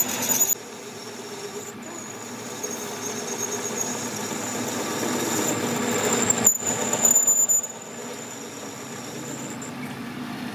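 Metalworking on a steel shaft: metal-on-metal machining noise with a steady high-pitched squeal, louder at the very start and for about a second around two-thirds of the way through.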